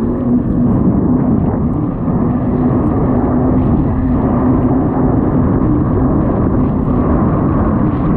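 Kawasaki STX 160 jet ski's four-stroke four-cylinder engine running hard at a steady high pace while under way, a continuous drone that wavers slightly in pitch. Rushing wind and water spray run under it.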